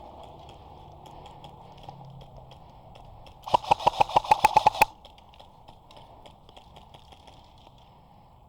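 Airsoft gun firing a rapid burst of about a dozen shots, roughly nine a second, lasting just over a second, about three and a half seconds in.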